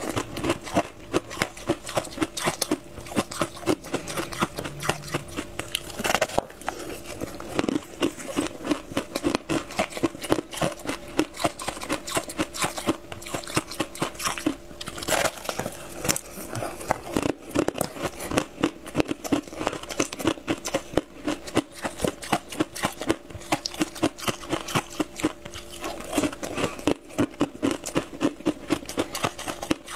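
Close-miked chewing and biting of a crumbly, crisp fried pastry (tartary-buckwheat snowflake crisp), with steady crackly crunches several times a second.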